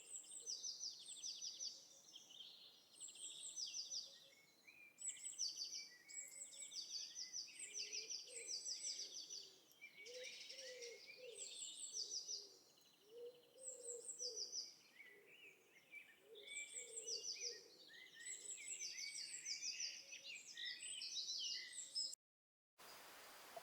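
Birds chirping and singing, with rapid repeated high trills and some lower calls underneath; the birdsong cuts off abruptly near the end, leaving a steady faint hiss.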